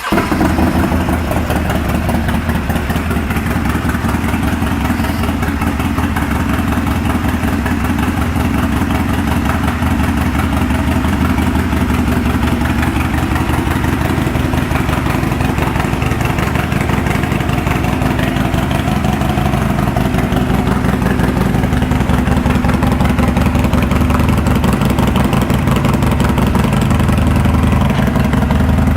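Harley-Davidson Sportster 1200 Nightster's air-cooled V-twin idling steadily through an aftermarket Danmoto 2-into-1 exhaust, just after a start.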